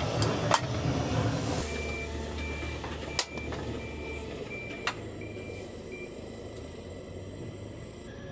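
A vehicle's reversing alarm beeping about seven times at an even pace over a running engine. Three sharp clicks or knocks come in between.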